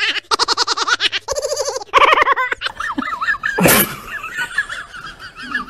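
A person laughing hard in quick, high-pitched bursts, then a short loud hit about two-thirds of the way in, followed by a fainter high warbling sound.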